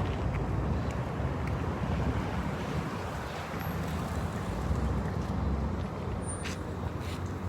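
Steady low rumble of vehicle traffic, with wind buffeting the microphone.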